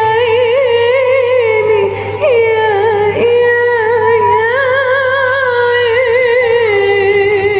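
A woman singing a long ornamented Arabic vocal line with wide vibrato and no clear words, the voice dipping briefly about two seconds in.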